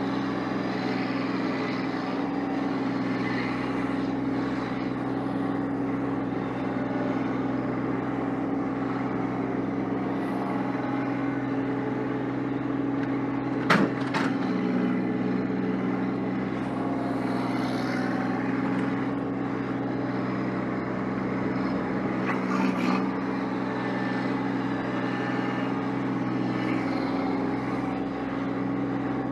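Vehicle engine running steadily while clearing snow, with one sharp knock about halfway through and a lighter clatter later on.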